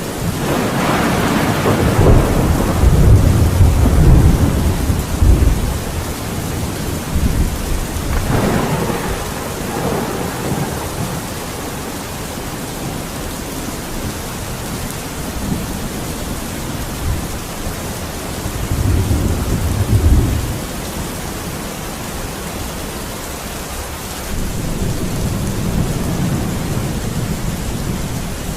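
Steady heavy rain with thunder rolling over it. The loudest rumble comes in the first few seconds, a sharper crack about eight seconds in, and smaller rumbles later on.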